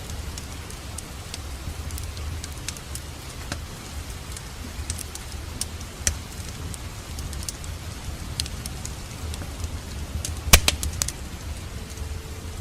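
Wood fire in a fireplace crackling over a steady low rumble, with scattered sharp pops and a loud burst of several pops about ten and a half seconds in.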